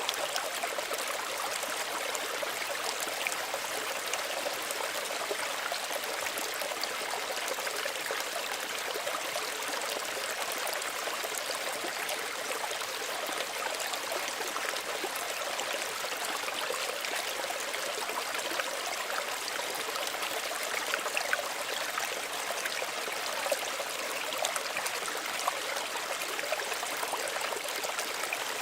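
Small stream running over stones with a steady babble and trickle, with small splashes flickering through it.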